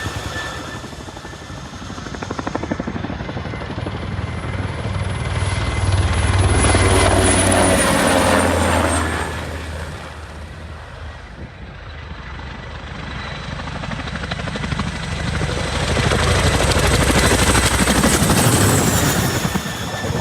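Military helicopters on a low-level flyby: steady rotor beat with a high turbine whine. The sound swells twice, peaking about seven seconds in and again near the end, and the whine drops in pitch as each pass goes by.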